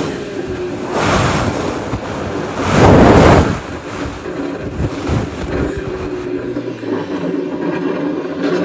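Hurricane-force wind gusting hard across the microphone in swelling rushes, the strongest gust about three seconds in.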